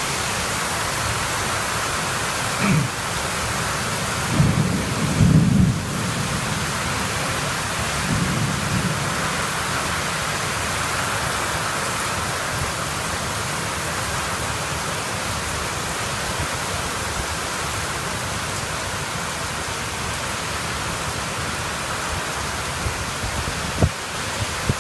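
Heavy rain pouring steadily during a thunderstorm, with low rumbles of thunder about three seconds in, around five seconds and again near eight seconds.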